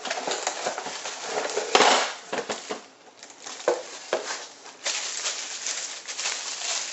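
Hands unpacking and handling a new angle grinder and its parts: packaging rustling with hard plastic and metal pieces clacking and clinking irregularly, one loud clack about two seconds in.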